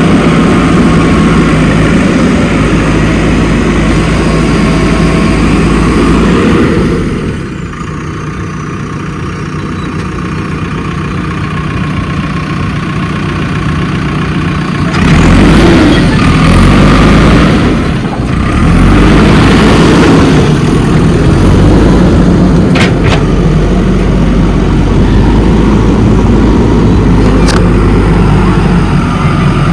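JCB 3DX backhoe loader's diesel engine running under work. It eases off about seven seconds in, then revs up hard twice in the second half as the machine digs and pushes soil, with a couple of sharp metal clanks near the end.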